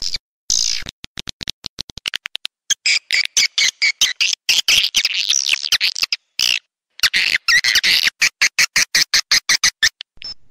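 Swiftlet call-sound recording of the kind played to lure edible-nest swiftlets into a nesting house: bursts of rapid, high twittering chirps cut by abrupt silent gaps, with a run of quick short clicks in the first couple of seconds.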